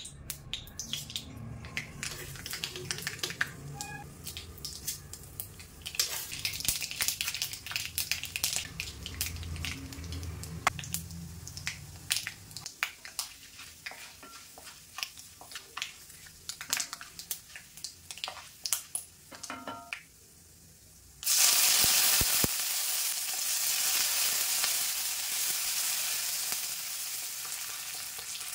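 Mustard seeds crackling and popping in hot oil in a cast-iron kadai, many sharp irregular pops as the seasoning is stirred with a wooden spatula. About twenty seconds in the popping stops, and after a brief lull a loud, steady sizzle starts as sliced onions fry in the oil.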